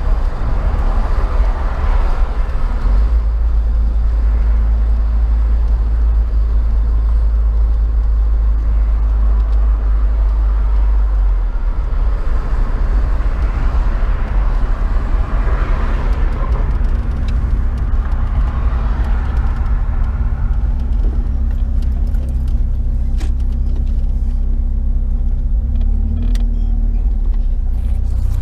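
Vehicle driving, heard from inside: a heavy steady low rumble of engine and road noise with a hiss that swells and fades. The rumble and hiss ease in the last third, leaving a steadier engine hum and a few sharp clicks near the end.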